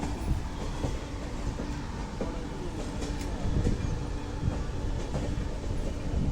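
Indian Railways express train crawling at low speed, a steady low rumble and hum broken now and then by wheels knocking over rail joints.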